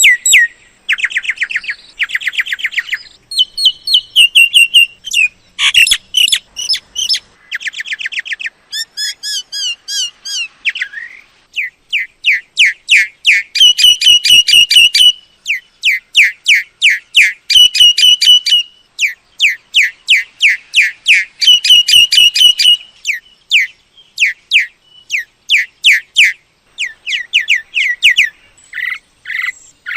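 A myna calling: fast runs of sharp, whistled notes that sweep downward, given in varied phrases with short pauses between them.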